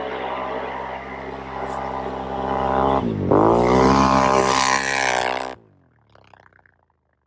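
Can-Am Renegade ATV's V-twin engine revving hard, dropping in pitch about three seconds in and then climbing back to high revs. The sound cuts off abruptly a little past halfway.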